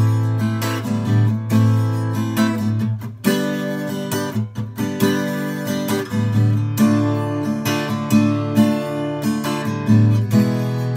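Instrumental passage of a rock song with no vocals, led by a strummed acoustic guitar playing chords over a steady bass.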